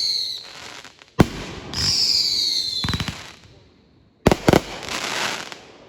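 Fireworks going off: a sharp bang, then a whistling firework gliding down in pitch for over a second. About four seconds in come a quick run of bangs, followed by a rush of noise that dies away.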